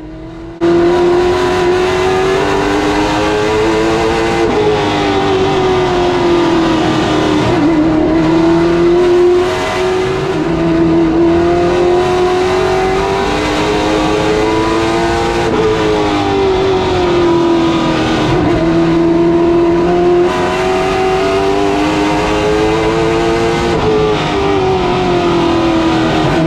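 Late model stock car's V8 engine at racing speed, heard on board: the pitch climbs steadily under throttle and drops sharply off throttle, about five times in a row as the car laps the short oval.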